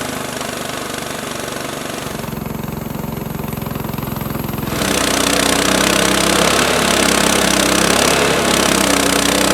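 Portable bandsaw mill's small gas engine running steadily while the blade cuts through black walnut. The cutting hiss thins out a couple of seconds in, then comes back louder about five seconds in.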